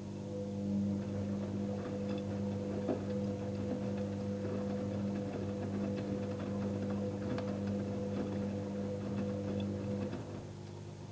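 Electrolux washing machine running: a steady motor hum that starts abruptly and stops about ten seconds in, with light scattered ticks and clicks over it. A lower background hum carries on throughout.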